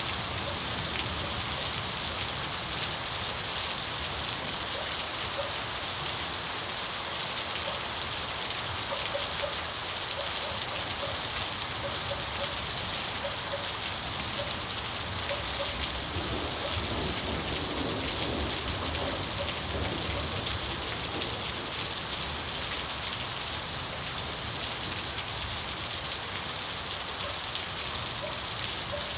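Steady rain falling, a dense even patter of drops, with scattered small plinks of drops through it.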